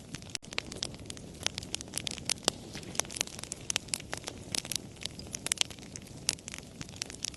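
Campfire crackling: frequent irregular sharp pops and snaps over a low, steady rush of the burning fire.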